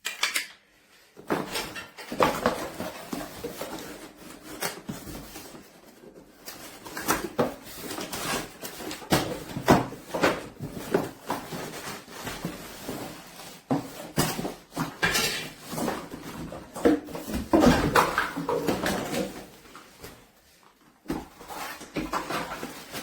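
Carpet washer parts and packaging being handled and unpacked: irregular knocks, clatter and rustling, with a short lull shortly before the end.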